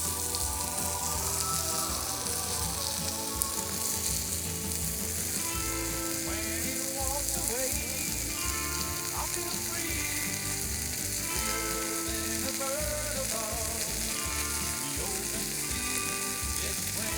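Chicken frying in oil on a thick steel griddle plate over a Swedish torch log fire: a steady, unbroken sizzling hiss.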